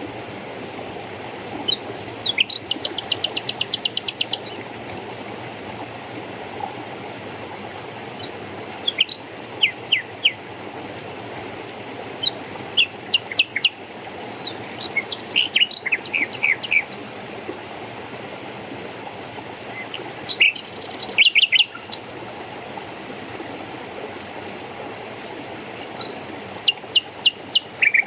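Small birds calling in scattered bursts of short, high chirps, including a fast trill a couple of seconds in, over a steady rush of flowing water.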